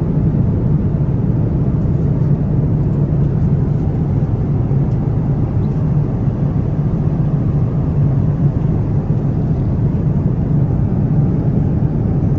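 Steady rumble of an airliner cabin in flight: jet engine and airflow noise heard from inside the plane, with a low, even hum.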